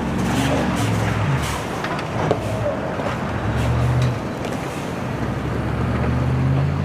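Motor vehicle driving: a steady low engine drone that rises and falls slightly in pitch, over continuous road noise.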